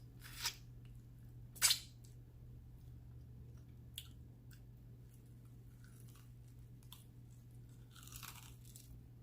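Crunchy bites into Flamin' Hot Cheeto-coated fried chicken wings: two loud crunches about half a second and nearly two seconds in, then quieter chewing with small clicks.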